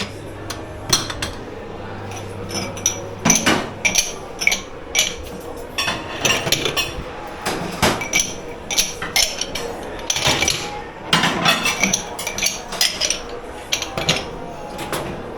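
Dishes, pans and cutlery being handled in a commercial dish pit: a busy run of irregular clattering, clinking knocks with a metallic ring, over a low steady hum that drops away after a few seconds and comes back near the end.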